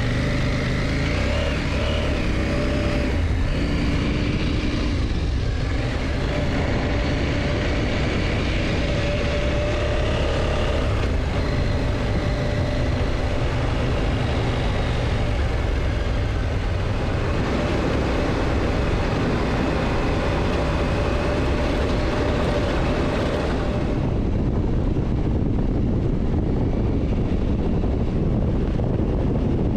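KTM motorcycle running steadily at road speed, engine note over a rush of noise. The higher hiss falls away about three-quarters of the way through.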